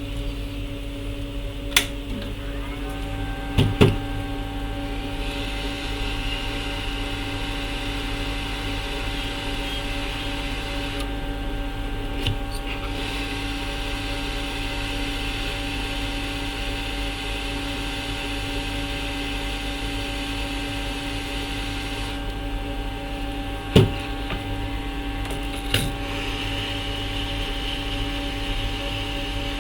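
Steady electrical hum and whir of workbench repair equipment, with a few sharp clicks and taps of tools on the board.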